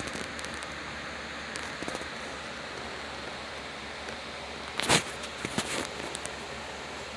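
Steady hiss of background noise, broken about five seconds in by one sharp knock and then a few light clicks, like a small object being handled or set down.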